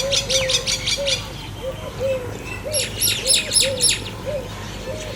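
Birds singing in the morning chorus: two quick runs of high, falling chirps, one at the start and one about three seconds in, over another bird's low note repeated about twice a second.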